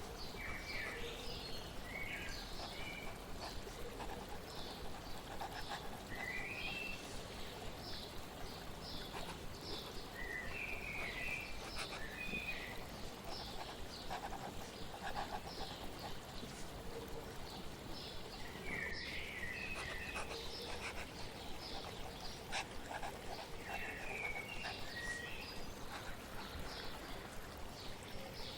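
Birds chirping in short, repeated phrases every few seconds over a steady wash of flowing water.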